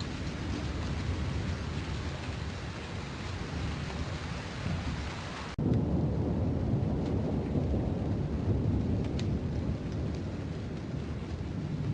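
Thunderstorm: steady rain with low rolling thunder. About halfway there is an abrupt cut, after which the rumble is louder and deeper and the rain's hiss is softer.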